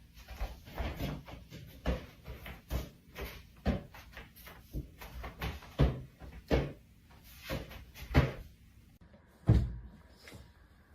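A series of irregular knocks and bumps, a dozen or so spread over several seconds, the loudest one near the end.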